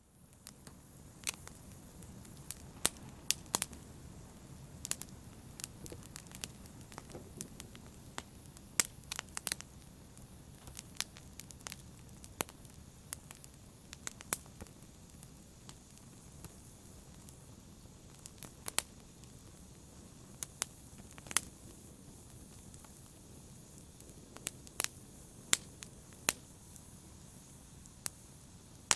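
Wood fire in a fireplace crackling: irregular sharp pops and snaps, some in quick clusters, over a low steady rush of the burning.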